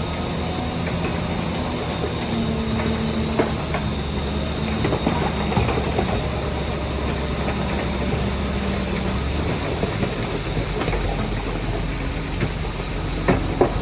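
Heavy earthmoving machine's diesel engine running steadily, its note shifting a few times, with scattered metal clanks and knocks, two of the loudest near the end.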